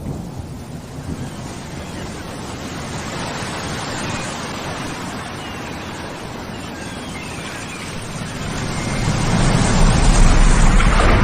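Steady rushing noise of a rainstorm, with a low rumble of thunder swelling near the end.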